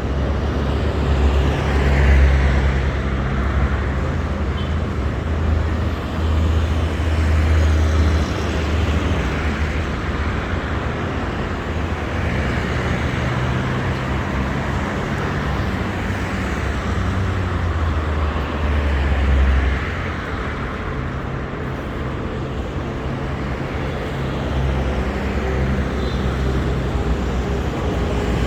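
Street traffic: cars and larger vehicles passing, with a continuous low engine rumble that swells as vehicles go by.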